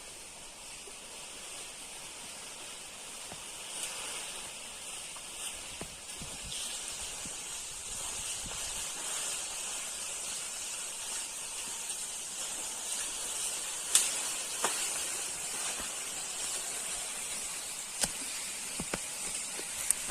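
Insects droning steadily in a high, hissing chorus that grows slightly louder, with a few sharp clicks or snaps; the loudest comes about two-thirds of the way through.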